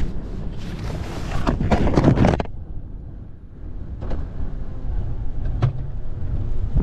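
Storm wind buffeting a car and the microphone with a steady low rumble, with a loud rushing gust from about half a second to two and a half seconds in and two sharp knocks later on.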